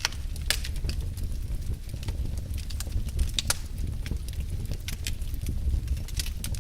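Wood fire in a fireplace crackling: frequent irregular sharp pops and snaps over a steady low rumble of the burning fire.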